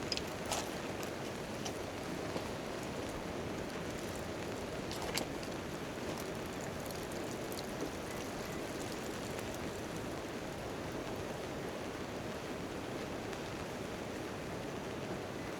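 Steady rain falling on a tent tarp, with a few sharp clicks, the loudest about five seconds in.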